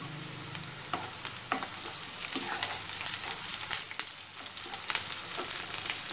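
Sliced onions, garlic and green chillies sizzling in hot oil in a kadai, stirred with a plastic spatula that scrapes and knocks against the pan every second or so.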